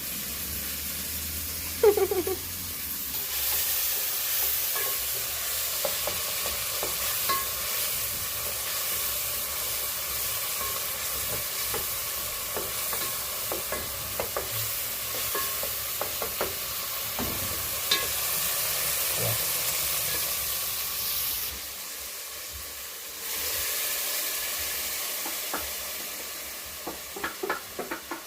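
Food sizzling in oil in a cooking pot, a steady hiss that drops away briefly about three-quarters of the way through, with scattered knocks and scrapes of a spoon stirring against the pot.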